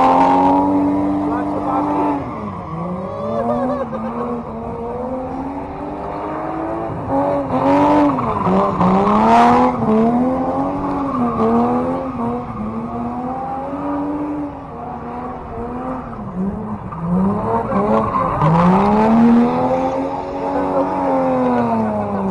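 Car engine revving hard, its pitch climbing and dropping over and over every second or two.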